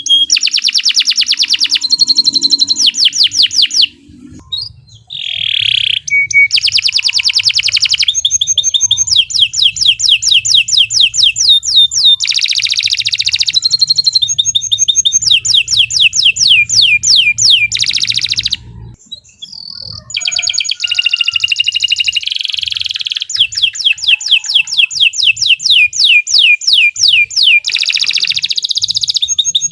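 Domestic canary singing a long, loud song of rapid trills and quickly repeated chirps, with short breaks about four seconds in and again near nineteen seconds.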